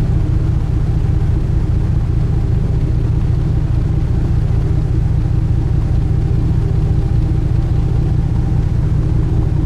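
Sightseeing cruise boat's engines droning steadily under way: a deep, even rumble with a steady hum above it.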